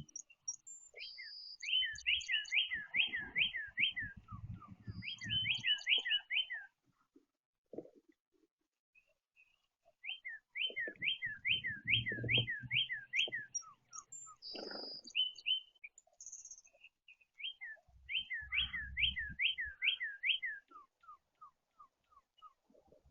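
A songbird singing clear whistled phrases, each a quick run of about six to eight downslurred notes, repeated four times with pauses between. A low rumble sits under some of the phrases.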